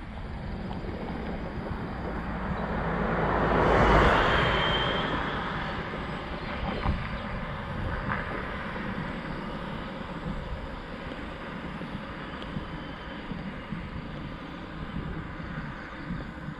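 Steady wind rush on the microphone while riding along a road. A louder rush builds and fades about four seconds in.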